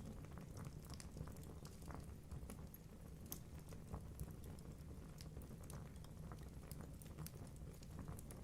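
Wood fire in a fireplace crackling: burning logs giving off a stream of irregular sharp pops and snaps over a low steady rumble of the flames.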